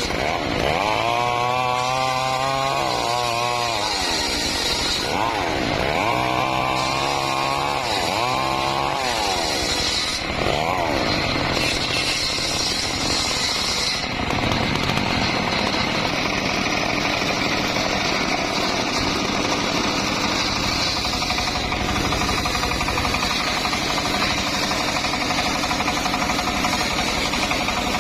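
Engine-powered wood saw running, its pitch swelling and falling twice in the first nine seconds, then running steadily.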